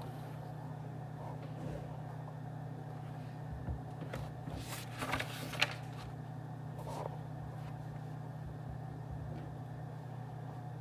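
Office ambience: a steady low hum, with scattered faint clicks and a short burst of noise about five seconds in.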